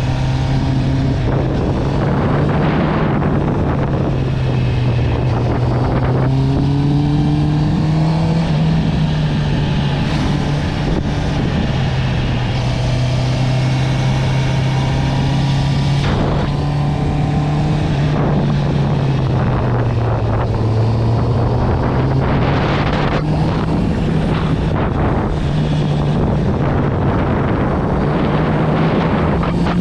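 Honda CB650R's inline-four engine running through an aftermarket Akrapovič exhaust at a steady cruise, its note drifting gently up and down with small throttle changes. Wind buffets the microphone now and then.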